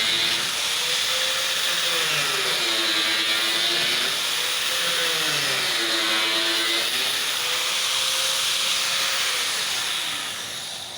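Small electric motor running steadily with a rushing hiss, its pitch slowly wavering up and down a few times; it dies away near the end.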